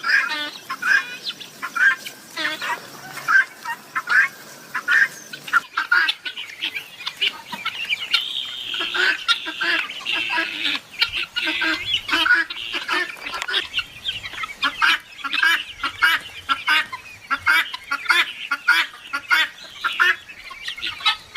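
A flock of helmeted guineafowl calling in a dense chorus of harsh, rapidly repeated cries.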